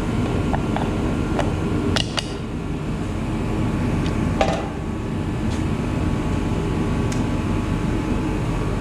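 A steady low hum, like a running fan or heater, with a few light metallic clicks and taps from parts being handled and fitted. The sharpest taps come about two and four and a half seconds in.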